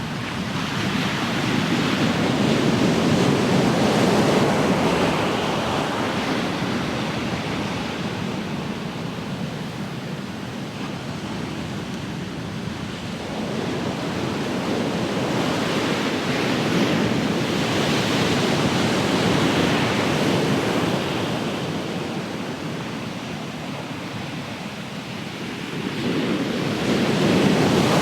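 Ocean surf: waves breaking, a steady rush that swells and fades in slow surges, the loudest a few seconds in, around the middle and again near the end.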